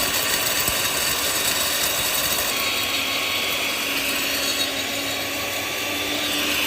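Food milling machine running steadily: a dense, even grinding noise with a thin steady whine over it.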